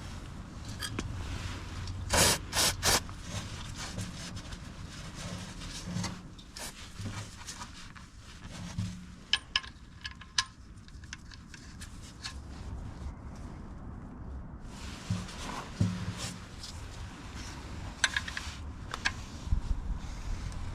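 Hands working with tools and parts during a DIY engine oil change: scattered clicks, knocks and rubbing or scraping sounds, with a cluster of louder knocks about two to three seconds in.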